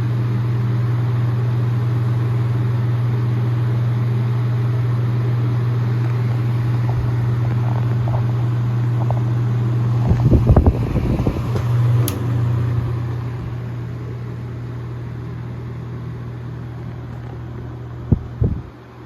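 Antique Mathes Cooler wooden box fan running: its electric motor hums steadily under the rush of air from the blades. A few knocks come about ten to twelve seconds in, the sound gets quieter after about thirteen seconds, and a couple of thumps come near the end.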